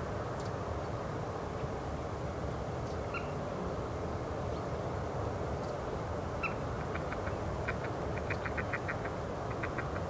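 Wild birds calling over a steady low background rumble: a single short call about three seconds in and another past six seconds, then from about seven seconds a quick series of short clipped notes, several a second.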